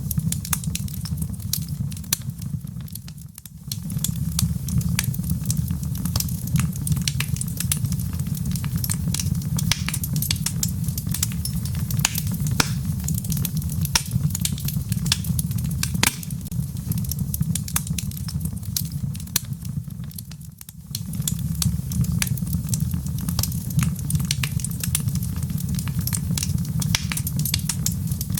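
Fireplace wood fire crackling, with many sharp irregular pops over a steady low rumble. The sound dips down briefly twice, about 3 seconds in and again about 20 seconds in.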